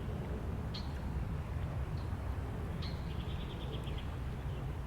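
Songbirds chirping, with a quick trill of repeated high notes about three seconds in, over a steady low rumble of wind.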